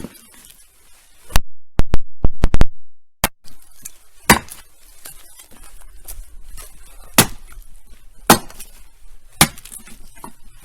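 Oak firewood being chopped: a run of sharp wooden knocks. A quick cluster of loud hits comes about two seconds in, then single strokes about a second apart.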